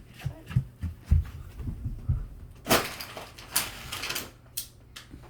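A cat scuffling and wrestling in a pet bed: a run of soft low thumps, then two louder rustling swishes and a click.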